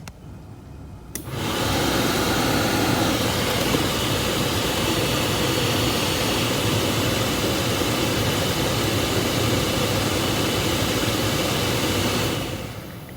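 A 2005 Ford Explorer's HVAC blower fan starts about a second in, runs steadily with a rushing of air, then winds down near the end.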